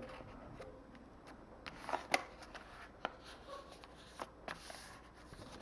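Sheet of paper being folded and creased by hand: scattered soft rustles and crisp little clicks, the loudest about two seconds in and again at three seconds.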